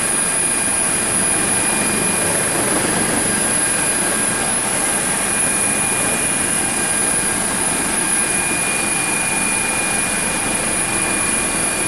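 Rescue helicopter running steadily in a hover: the turbine engines' steady high whine over the dense rush of the rotor.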